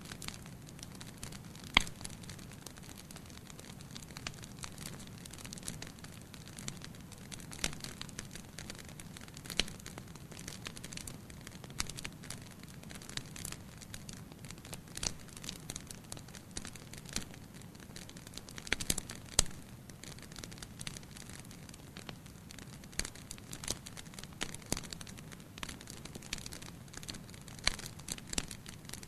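Wood fire burning in a fireplace: a steady soft hiss with irregular sharp crackles and pops, a few of them louder, near two seconds in and again around nineteen seconds.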